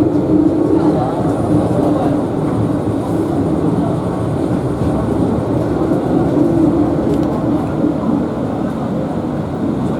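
Victoria Peak Tram funicular car running up its track, a steady rumble with a low hum heard from inside the car.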